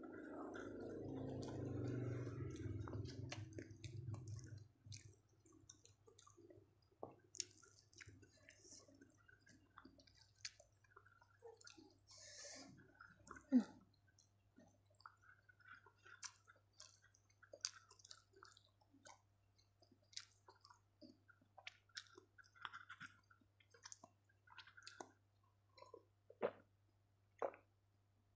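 Close-miked chewing of a mouthful of rice and fish, soft and wet, loudest in the first few seconds. After that come scattered short lip smacks and mouth clicks, with one sharper click about halfway through.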